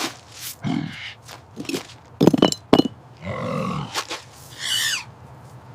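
Short grunting and squeaky animal calls, mixed with scraping and a few sharp knocks about two seconds in.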